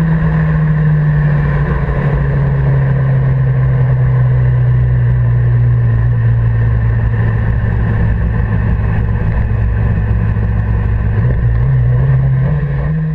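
Kawasaki ZX-10R's 998 cc inline-four engine running steadily under a constant rush of noise. Its pitch falls slowly through most of the stretch, then rises a little near the end.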